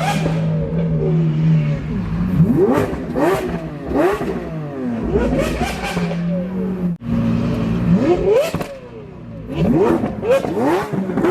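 Sports car engines revving in a string of quick throttle blips, each a short rising sweep in pitch, over the steady drone of engines running. The sound breaks off for an instant about seven seconds in.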